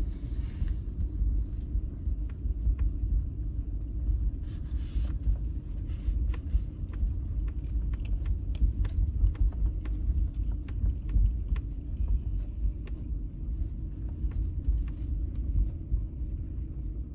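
Steady low rumble with many faint scattered clicks and rattles.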